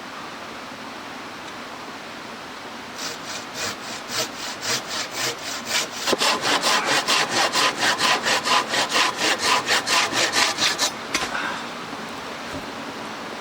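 Hand saw cutting through wood: a few lighter strokes, then steady, louder back-and-forth strokes at about four a second that stop a couple of seconds before the end. A steady rush of stream water runs underneath.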